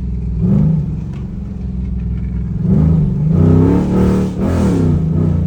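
Car engine revving over its idle: one short rev about half a second in, then a run of rises and falls in pitch from about three seconds in.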